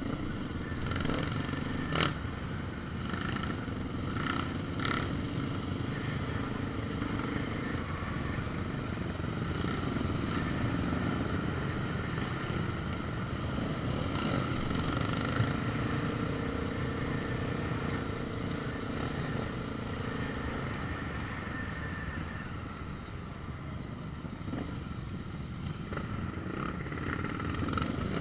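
An engine running steadily, with a sharp click about two seconds in.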